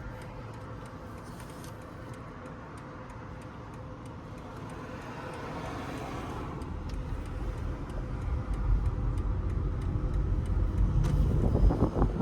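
A BMW XM's 4.4-litre V8 pulling the car along, heard from inside the cabin. The low engine rumble builds and grows louder from about halfway through as the car accelerates.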